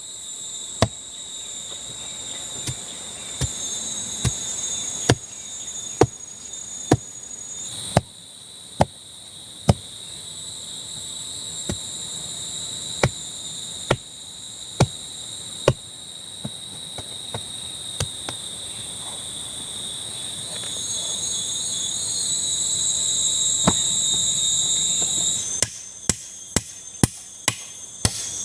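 Repeated sharp striking blows, about one a second and coming faster near the end, like hammering or chopping at a campsite. Under them runs a steady high-pitched insect chorus, which drops away shortly before the end.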